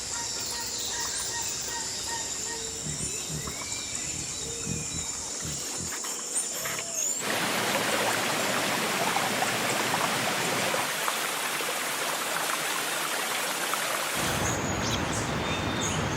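Outdoor ambience with faint bird calls, then, after an abrupt change about seven seconds in, a steady hiss of rain.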